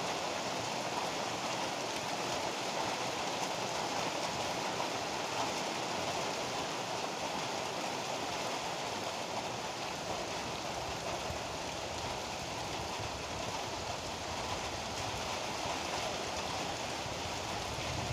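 Heavy rain falling steadily, a dense, even hiss with no distinct drops or thunder standing out.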